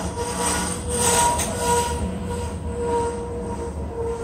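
Freight train's covered hopper cars rolling past at a grade crossing: a steady rumble of steel wheels on rail, with a whining tone that swells and fades, loudest about a second in.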